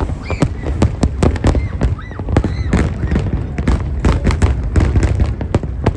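Fireworks display: a fast, continuous barrage of bangs and crackling pops, several every second, over a steady low rumble.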